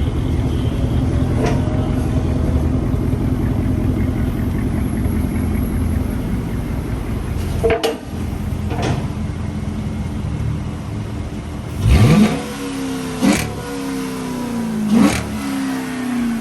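Straight-piped 2006 Dodge Charger R/T's 5.7 L Hemi V8, mufflers and resonators removed with the catalytic converters still in place, running with a loud, steady low exhaust rumble for about eight seconds. After a brief dip, the revs rise sharply about twelve seconds in, then fall away, with a few short, sharp bursts from the exhaust.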